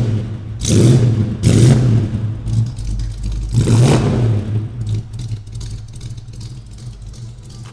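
V8 engine of a 1969 Esplanada GTX revved through a custom-built dual exhaust: four quick blips in the first four seconds, then settling to an uneven idle rumble.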